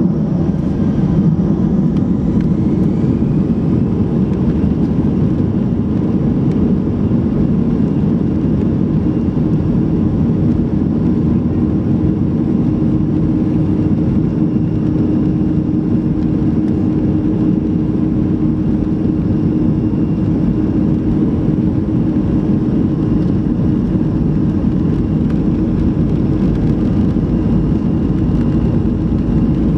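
Steady jet engine and airflow drone heard from inside an Airbus A320-200 cabin as it climbs after takeoff, with a low hum throughout and a faint rising whine about a second in.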